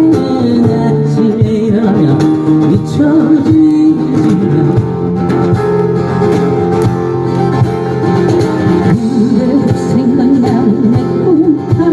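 Live song performance with guitar accompaniment and a singing voice.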